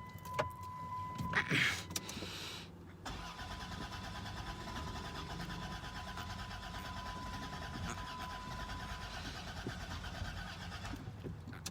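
Starter cranking a 2002 Dodge Grand Caravan's 3.3-litre V6 steadily for about eight seconds, beginning about three seconds in after a click, without the engine catching. It sounds like it's about to start, but it doesn't: the van cranks but won't fire even though it has spark, a new fuel pump and a new fuel filter.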